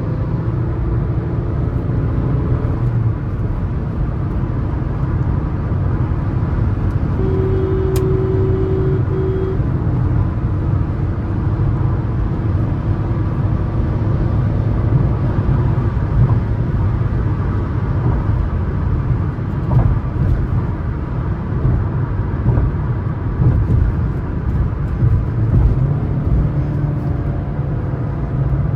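Suzuki S-Cross 1.3 DDiS diesel at highway speed: a steady low rumble of road and engine noise. A short steady tone sounds about eight seconds in.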